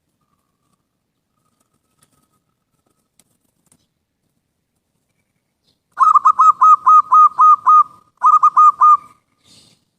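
Zebra dove (perkutut) cooing: after a silent stretch, a quick run of about nine clipped, hooked notes, a brief break, then four more notes.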